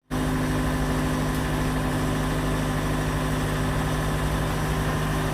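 Engine of the farm machine powering a hydraulic log splitter, running steadily at an even speed.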